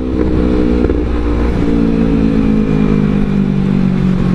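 Motorcycle engine running at a fairly steady speed while riding, its pitch easing down slightly near the end, with low wind rumble on the microphone.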